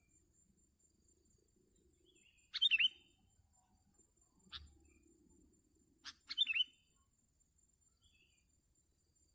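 Sooty-headed bulbul (kutilang) giving two short, loud call phrases about three and a half seconds apart, each a quick run of sweeping notes. Faint insects buzz in the background.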